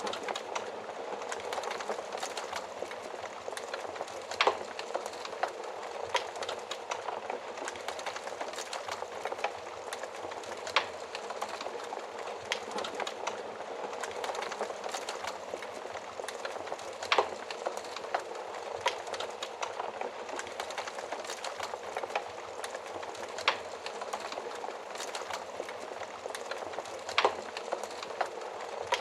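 Wood fire crackling in an oven: a steady bed of dense small crackles, with a few louder sharp pops every several seconds.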